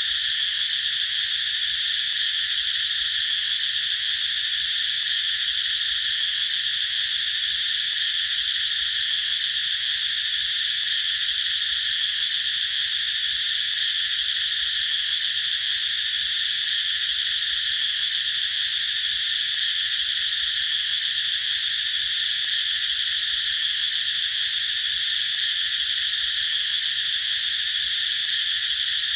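Cicadas singing in a steady, unbroken chorus: a high-pitched buzzing drone that keeps an even level throughout.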